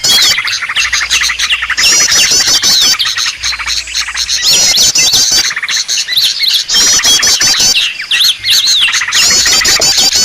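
Dense, continuous chirping and chattering of small songbirds, a bird-lure (pikat) recording made to draw small birds in, with recurring bursts of quick high trills every couple of seconds.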